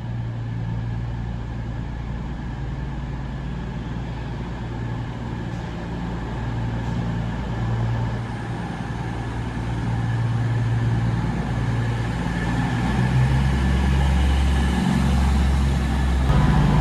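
CrossCountry Class 220 Voyager diesel train pulling into a station platform, its underfloor diesel engines giving a steady low drone that grows louder over the last few seconds as the train comes alongside.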